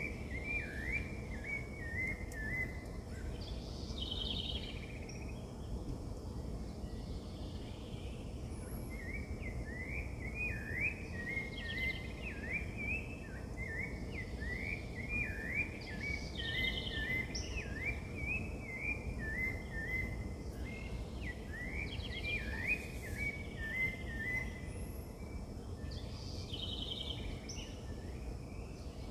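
Wild birds calling: long runs of quick, rising chirps, with short, higher-pitched trills every four or five seconds, over a steady low background noise.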